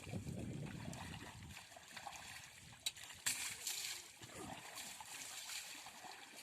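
River water splashing and sloshing as a backhoe loader is washed, with a short run of louder splashes about three seconds in. A low rumble underneath fades out after the first second and a half.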